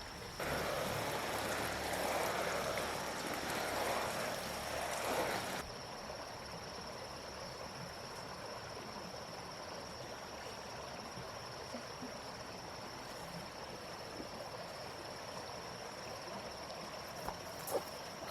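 Outdoor ambience with a steady high-pitched insect drone. A loud rushing noise fills the first five seconds and cuts off suddenly, and there is a sharp click near the end.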